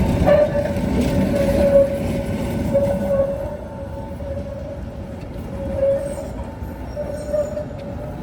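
Tatra tram running on the rails, its low rumble dying away over the first few seconds, with a steady high tone that swells and fades at one pitch throughout.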